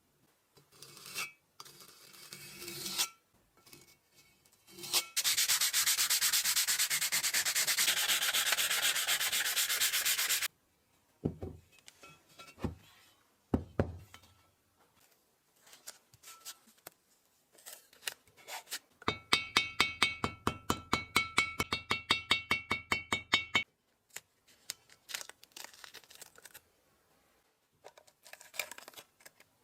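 Hand work on metal drill-press parts. About five seconds in comes several seconds of fast, steady scrubbing or sanding, then a few low knocks. Later comes a run of rapid, evenly spaced scraping strokes with a faint metallic ring.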